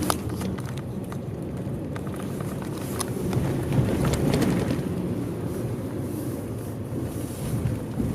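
A tour bus's engine and road noise heard from inside the moving bus, a steady low rumble. There are a few light clicks or rattles, and the sound swells slightly about halfway through.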